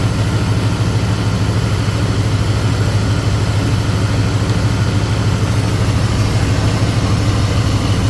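Car engine idling steadily under the hood with the A/C compressor engaged and running while the system takes its refrigerant charge.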